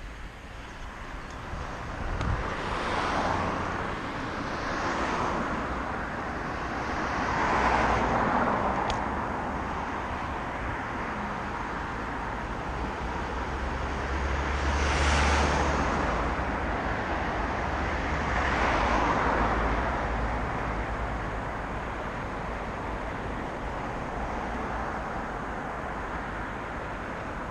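Road traffic passing: about five vehicles sweep by one after another over a steady road noise, each swelling and fading over a second or two. The loudest, with a deep rumble, comes about halfway through.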